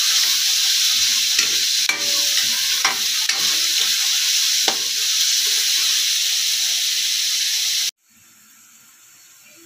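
Sliced meat sizzling as it fries in a hot metal wok, stirred with a metal spatula that scrapes and knocks against the pan a few times. About eight seconds in the sizzling cuts off abruptly, leaving a much quieter background.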